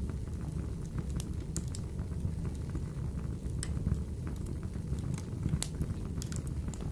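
Wood fire burning in a wood stove: a steady low rumble of flames with irregular sharp crackles and pops, several a second.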